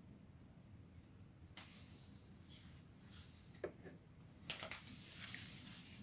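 Near silence: room tone with a few faint, brief clicks and soft rustling noises in the second half.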